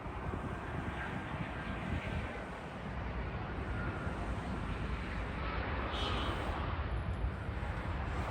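Jet airliner engines rumbling at an airport, a steady deep roar that grows slightly louder through the second half.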